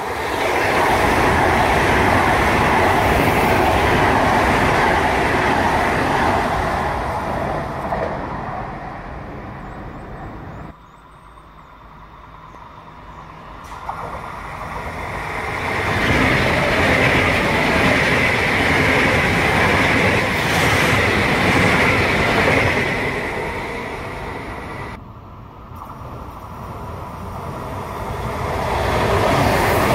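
High-speed electric trains passing at speed: a steady rolling roar of wheels on rail swells and fades in three waves, with two sudden drops where the sound cuts. Near the end a Frecciarossa 1000 comes in and the roar rises again.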